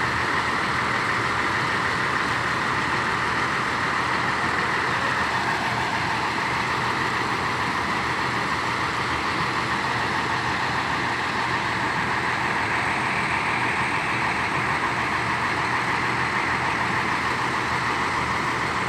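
Hino AK8 bus's diesel engine idling steadily.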